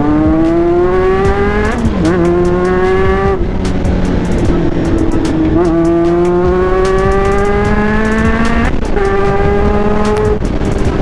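Honda CB1's 400 cc inline-four engine pulling under acceleration while riding. The revs climb steadily, then drop sharply at each upshift about four times, with heavy wind and road noise throughout.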